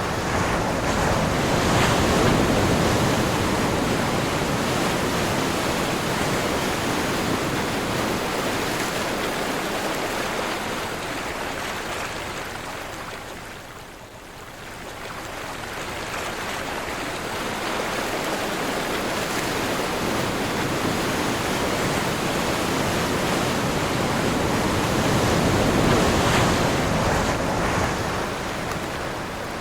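Sea waves breaking and washing in a strong wind, a continuous rush of surf. It swells loudest near the start and near the end, with a lull about halfway through.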